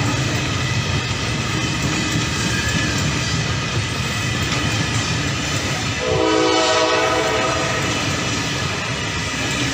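A train running with steady rail noise, its horn sounding for about a second and a half starting about six seconds in, dropping a little in pitch as it sounds.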